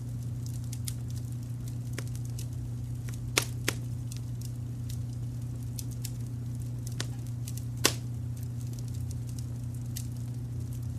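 Wood fire crackling with scattered sharp pops, the loudest about three and a half seconds in, again just after, and near eight seconds, over a steady low brown-noise rumble.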